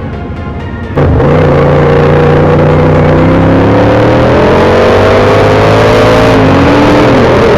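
Background music cuts off about a second in to a loud motorcycle engine accelerating. Its pitch climbs steadily, drops at a gear change near the end, then starts climbing again.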